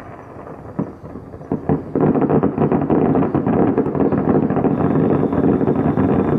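Fireworks: a few separate bangs, then from about two seconds in a dense, continuous barrage of rapid pops and rumbling.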